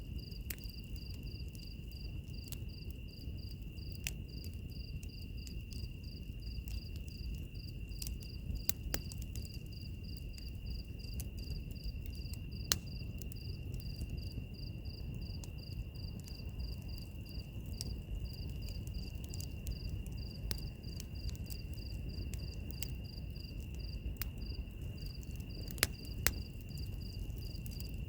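Crickets chirping: one a continuous high trill, another in regular pulses about three a second. Beneath them runs the low rumble of a wood fire, with scattered crackles and a few sharper pops.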